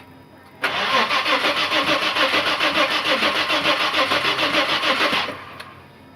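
Audi Allroad 2.7 biturbo V6 being cranked over by the starter motor for about four and a half seconds, with an even pulsing of about four beats a second. It does not catch and run: the pulsing stops and fades out near the end.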